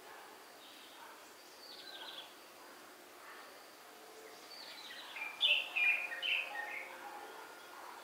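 Birds chirping over a faint steady background hiss, with a few short calls about two seconds in and a louder flurry of chirps from about five to seven seconds in.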